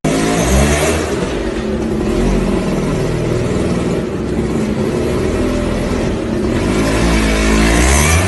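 Motor vehicle engine running and revving, its pitch rising and falling several times over a steady low rumble.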